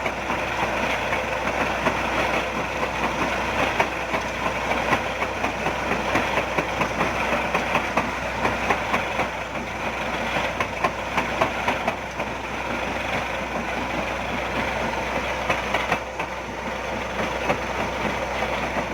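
A large engine running steadily, a continuous even noise with a constant low hum underneath.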